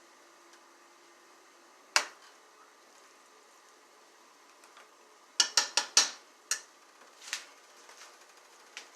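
Kitchenware clatter: a single sharp knock, then a quick run of clinks and knocks of cookware and utensils, with a few more scattered after.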